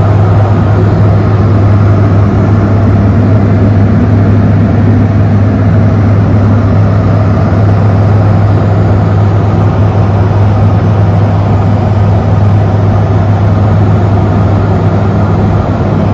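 Light aircraft's piston engine and propeller running steadily in cruise, heard inside the cockpit as a loud, even drone with a strong low hum.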